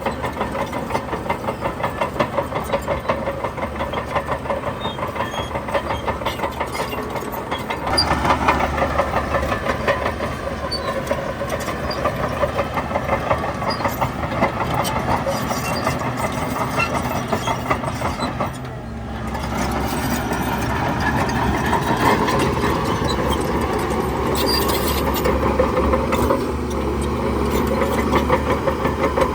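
Diesel engines of a bulldozer and dump trucks working on stone, running steadily with a fast, even engine beat. The engine note steps up about eight seconds in, drops briefly near the middle, then runs louder again.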